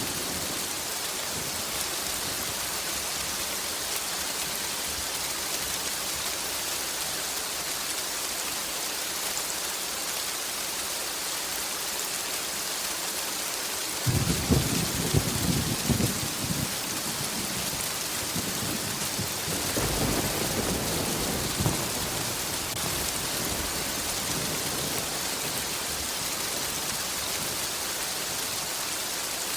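Steady rain hissing, with thunder rumbling twice: a sudden crackling peal about halfway through, then a deeper rumble a few seconds later.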